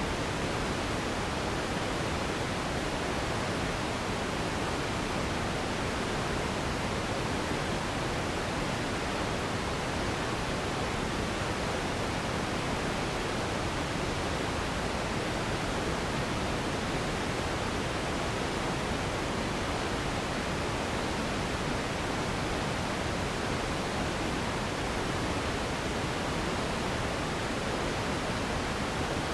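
Steady, unchanging sleep noise: an even, full-range hiss with no changes or events.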